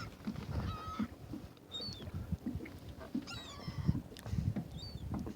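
A flock of gulls calling: short squawks and cries, one after another, with a busier cluster about three seconds in, over a low rumble.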